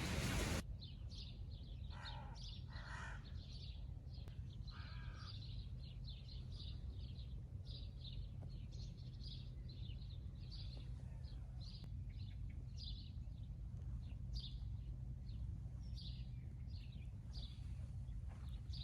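Outdoor birdsong: small birds chirping in quick, repeated short calls, with a crow cawing three times in the first five seconds. A steady low rumble runs underneath.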